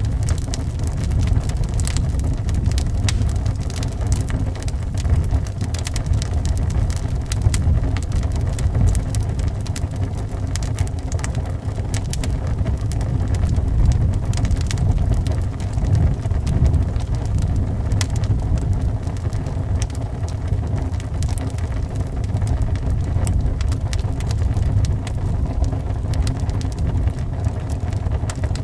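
Wood fire crackling with irregular sharp pops and snaps, over a steady low rumble of wind howling around the house.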